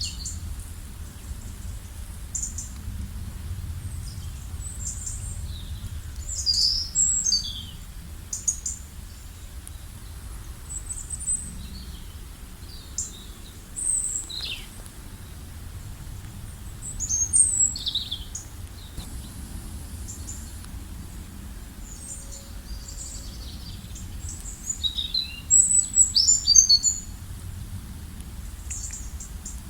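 Wild songbirds chirping and calling on and off, in short high chirps and quick downward sweeps, with a busy flurry of calls near the end. A steady low rumble sits underneath.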